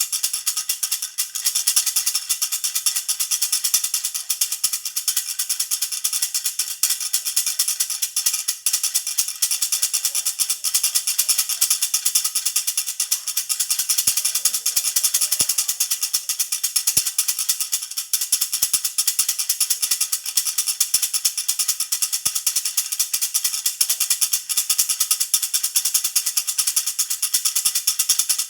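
Baby's jhunjhuna rattle toy shaken continuously, a steady bright jingling rattle without pause.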